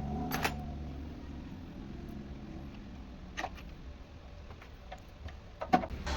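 A few sharp clicks over a low steady hum: one about half a second in, one about three and a half seconds in, and a couple near the end.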